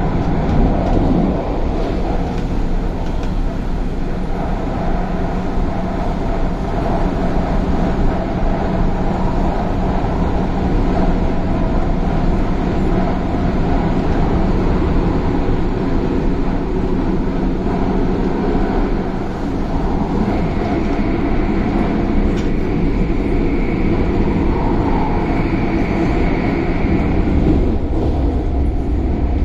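CAF-built MTR Tung Chung line electric train running, heard from inside the carriage as a steady rumble with a low hum. A faint high whine comes in about twenty seconds in and fades a few seconds later.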